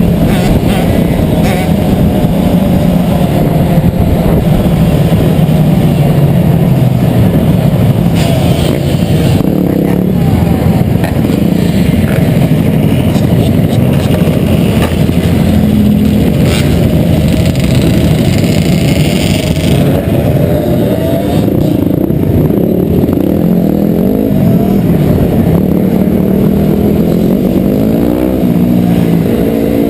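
Dirt bike engines running continuously, their pitch rising and falling as the throttle is worked.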